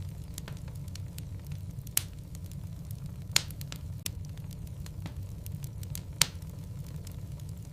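Wood logs burning in a fireplace: irregular crackling with scattered sharp pops over a steady low rumble of the flames. Three pops stand out as louder, about two, three and a half and six seconds in.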